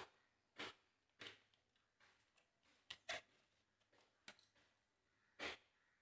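Faint, irregular clicks and crinkles of a plastic bottle being handled as it is glued onto a plate, about half a dozen short sounds.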